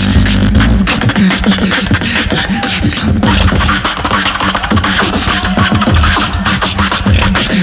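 Human beatboxing: a fast run of sharp clicks and snare sounds over a deep bass line.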